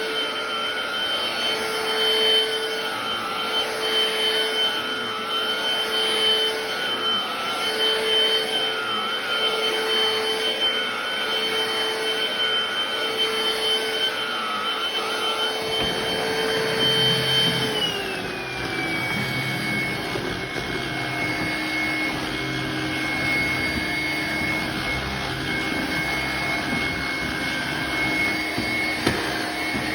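BLACK+DECKER POWERSERIES+ 16V MAX cordless stick vacuum running steadily with a high whine. A little over halfway through, its motor pitch drops smoothly and stays lower, with more low rumble underneath.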